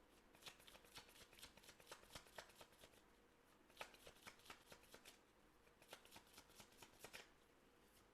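A deck of reading cards being shuffled by hand: faint, quick card clicks in two runs with a pause of about a second between them.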